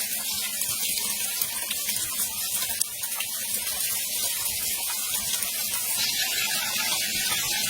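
Steady rush of falling water, an even hiss with no distinct splashes or breaks.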